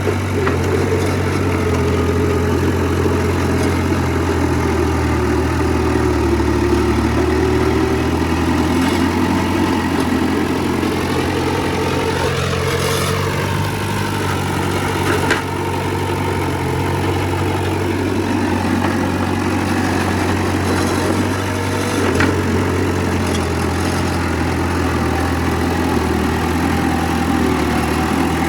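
Heavy diesel engine of earthmoving machinery running steadily, with a brief shift in pitch about halfway through.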